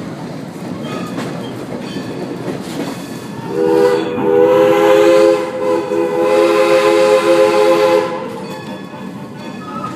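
Train rolling along with steady rail and wheel noise, heard from inside a passenger coach. About three and a half seconds in, the locomotive sounds a long, loud multi-note whistle chord for about four and a half seconds.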